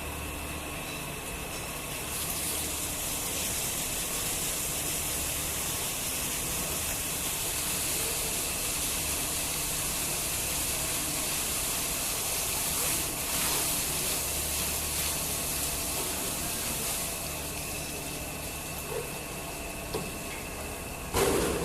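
A steady machine hum under a rushing, hissing noise that sets in about two seconds in and eases off a few seconds before the end, with a short knock near the end.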